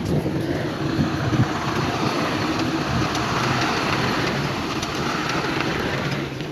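Heavy diesel earth-moving machinery running steadily, with a rushing noise that swells through the middle and fades near the end.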